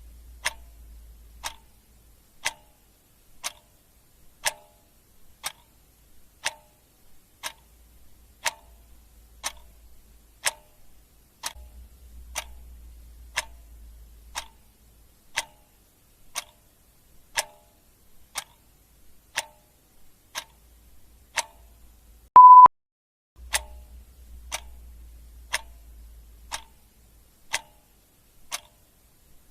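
Clock ticking steadily, about one tick a second. About twenty-two seconds in, a single short high beep sounds, louder than the ticks.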